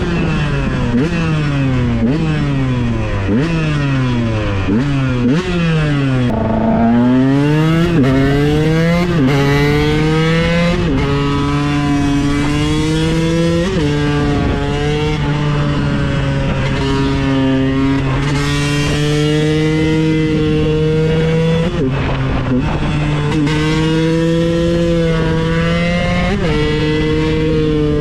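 KTM 125 EXC supermoto's single-cylinder two-stroke engine under way: the engine note falls in a series of downshifts, then after about six seconds climbs up through the gears and holds a steady high pitch, dipping briefly at each gear change.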